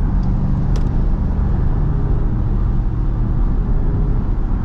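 Steady engine and road noise heard from inside an SRT Jeep Grand Cherokee's cabin as it cruises on a wet road, a continuous low rumble.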